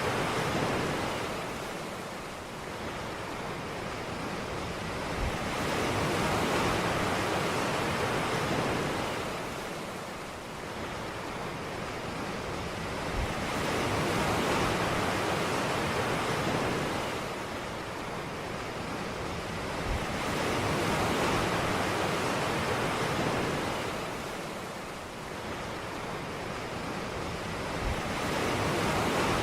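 Ocean surf breaking on a beach, the wash of each wave swelling and easing about every seven or eight seconds.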